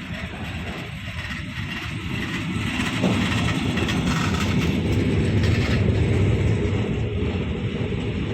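Train passing along the tracks, growing louder with a sudden rise about three seconds in and staying loud.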